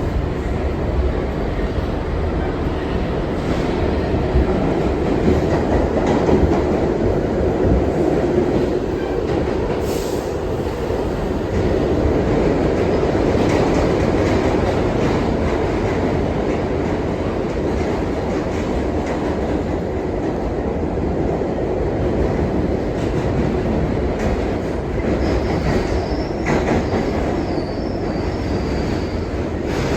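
R62 subway train running at speed: a steady loud rumble of wheels on rail, with a few sharp clicks over rail joints and a faint wavering high wheel squeal near the end.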